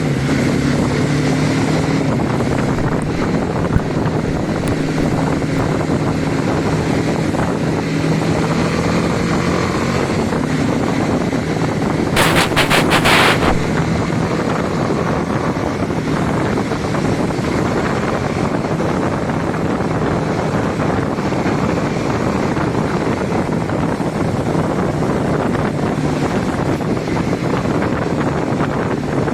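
Wind buffeting the microphone of a moving vehicle, over a steady engine. About twelve seconds in, a loud crackle lasts a second or so.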